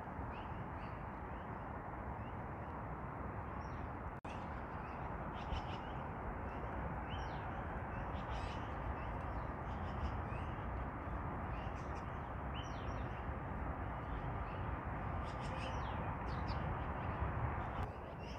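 Small birds calling: many short, high chirps scattered throughout, over a steady background hiss.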